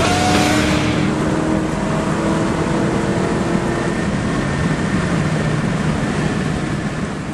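Car engine running hard under acceleration, its pitch climbing slowly for a few seconds before it blends into a steady rumble that tapers off at the end.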